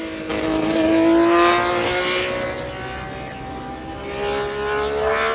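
Racing car engine running hard on track, one steady engine note that climbs slowly in pitch as it pulls. It is loudest about a second and a half in.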